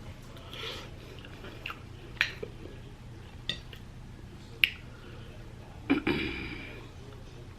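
Close-up eating sounds: chewing with several sharp wet mouth clicks and smacks, and a louder smack about six seconds in.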